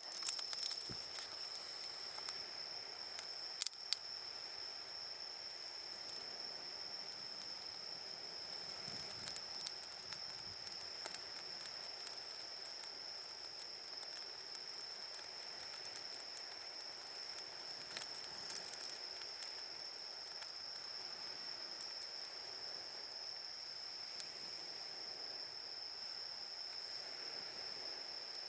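Crickets singing, a steady high-pitched trill that keeps on without a break, with a few sharp clicks scattered through it.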